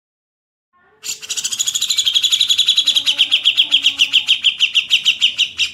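A songbird calling in a fast, harsh trill of repeated rasping notes, about eight a second. It starts about a second in and breaks off abruptly near the end.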